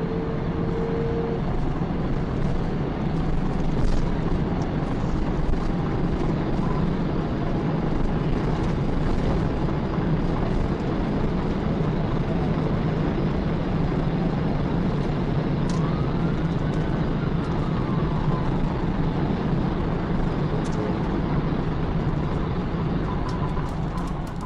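Steady road and engine noise of a car travelling at highway speed, with a few faint clicks.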